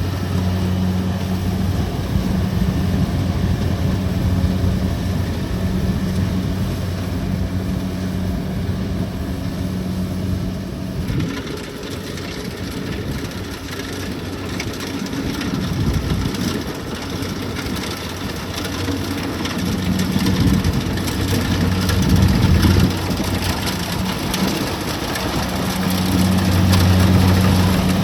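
Kubota DC-70 Plus combine harvester's diesel engine running steadily under load while it cuts rice, with the threshing machinery's clatter. About a third of the way in the low engine hum drops back and a brighter, noisier sound takes over, then the hum swells again near the end.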